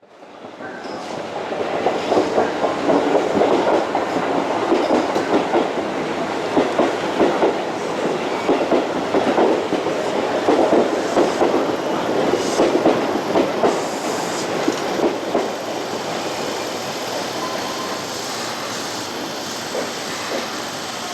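Keisei train running on the rails, its wheels clattering rapidly over rail joints and points. The clatter eases into a steadier, quieter rumble after about sixteen seconds.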